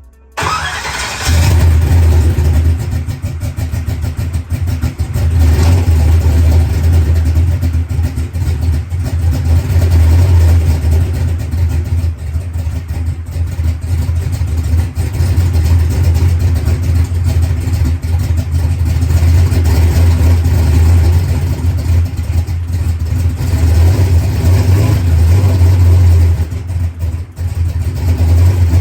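Drag race car's engine firing up on its newly installed Enderle fuel pump, catching and rising in revs within the first second or so, then running loudly with the revs rising and falling several times.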